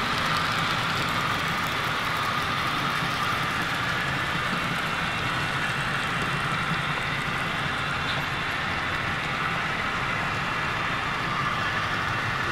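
HO-scale model train running on the layout's track: a steady whirr of the locomotive motor and the wheels rolling on the rails, with no pauses or clicks standing out.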